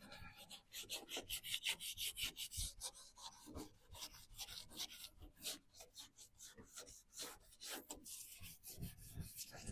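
Faint hand sanding: an abrasive pad rubbed back and forth over primed van body panels in quick, even strokes, about three or four a second, rubbing the primer down.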